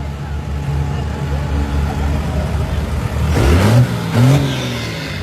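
Diesel pickup truck engine idling, then revved twice in quick succession about three and a half seconds in, each rev rising and falling back before it returns to idle.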